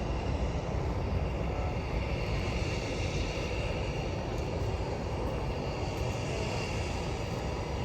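Jet airliner engines running, a steady rumble with a hiss above it.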